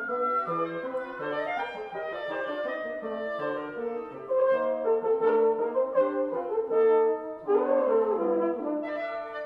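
Woodwind quintet (flute, oboe, clarinet, French horn and bassoon) playing a lively classical passage, several parts moving together in short notes. The ensemble gets louder about four seconds in.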